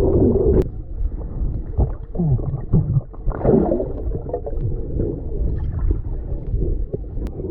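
Wind buffeting the microphone with a steady low rumble, and distant shouts and calls of people playing out on the water.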